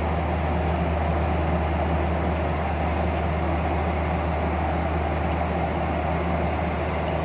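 Steady cabin noise of a Boeing 737 in flight: a constant low drone with an even rush of airflow over it and no changes.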